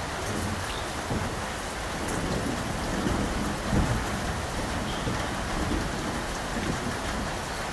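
Steady rain falling, with low thunder rumbling underneath that swells briefly about four seconds in.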